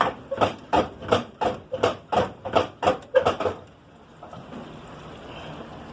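Rapid repeated blows, about three a second, hammering on a part that is wedged stuck on a truck; they stop about three and a half seconds in.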